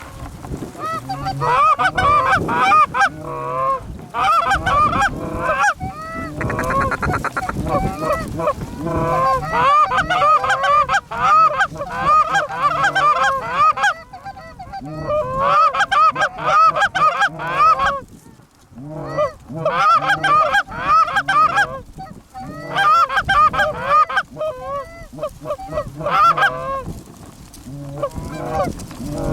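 Canada goose honking and clucking from hunters' goose calls and an incoming flock, many overlapping rapid calls in bursts of a few seconds with short pauses between, as the geese are worked in to the decoys.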